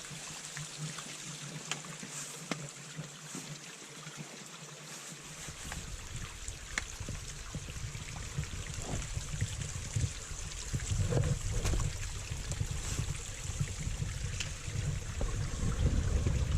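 Outdoor wind noise: a steady, even hiss, with low buffeting of wind on the microphone that comes in about five seconds in and grows stronger toward the end.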